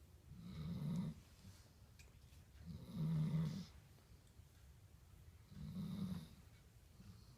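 German shepherd snoring in her sleep: three snores, each under a second long, about two and a half seconds apart, with quieter breathing between.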